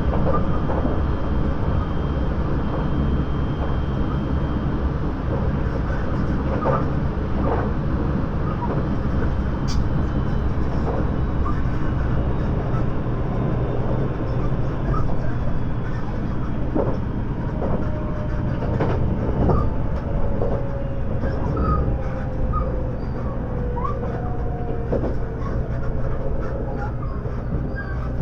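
Inside a 681-series electric multiple unit's motor car running at speed: steady rumble of wheels on rail with scattered clicks and knocks from the track. In the second half a faint whine from the traction motors slowly falls in pitch as the train slows.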